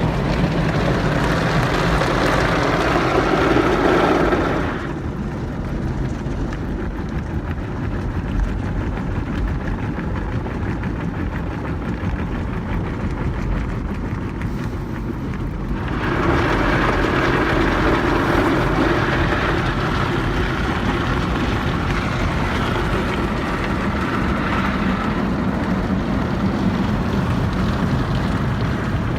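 Belanger Freestyler car wash equipment heard from inside the car: a loud, steady rush of spraying and washing. About five seconds in it drops away to a lower rumble, and about sixteen seconds in it comes back.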